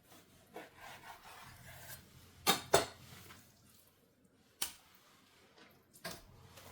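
Household objects being handled: a soft rubbing or sliding sound, then two sharp knocks in quick succession, with two more single knocks a couple of seconds apart.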